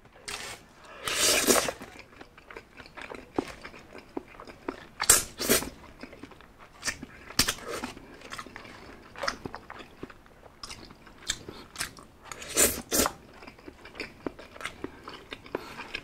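Close-miked chewing of McDonald's spaghetti, with many wet mouth clicks and smacks. A longer noisy stretch comes about a second in, and louder smacks come around five and thirteen seconds in.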